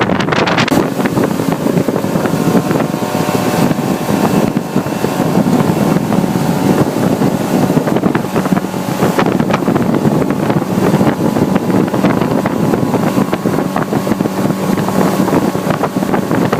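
Motorboat engine running steadily at speed, with water rush and wind buffeting the microphone.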